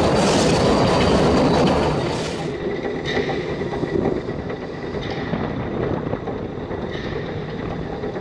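Puffing Billy narrow-gauge steam train running along the track, a steady rumble of wheels on rails. About two and a half seconds in it turns quieter and duller, with a few separate clicks of the wheels over the rail joints.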